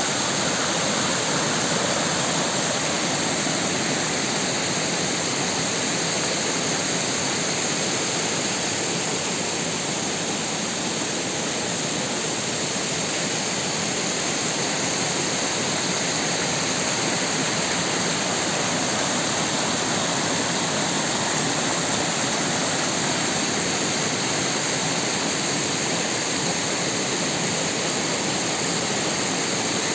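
Rain-swollen creek rushing: a steady, unbroken sound of fast-flowing water.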